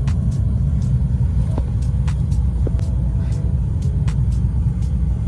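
Steady low rumble of a car heard from inside the cabin, its engine running as it waits or creeps up to a gate, with faint scattered light clicks over it.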